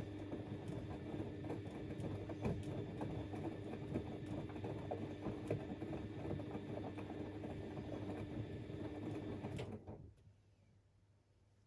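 Front-loading washing machine in its wash cycle: the motor hums steadily while the drum turns the laundry, with many small clicks and knocks. About ten seconds in it stops suddenly and goes almost silent.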